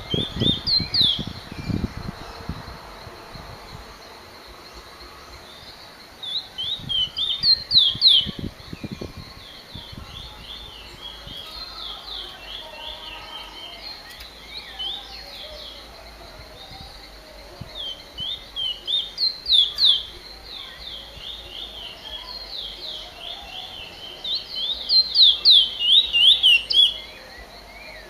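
A finch singing in repeated bursts of quick, high, down-slurred chirps, with quieter twittering between the bursts. The loudest bursts come near the end. A few low thuds come in the first seconds.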